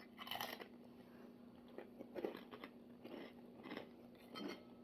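Someone chewing a crispy matcha senbei cracker: a few faint, irregular crunches.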